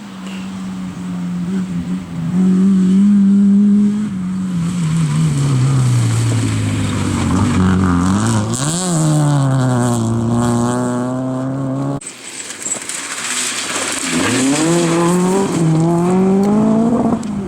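Rally cars at speed: one engine holds a steady high note, then falls in pitch as it slows or goes by, with a quick rev blip about nine seconds in. It cuts off abruptly, and another engine follows with a rising note as it accelerates.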